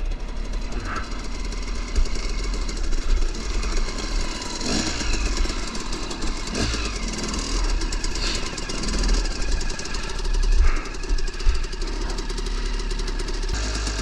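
KTM 300 two-stroke dirt bike engine running under load while riding, its revs rising and falling several times.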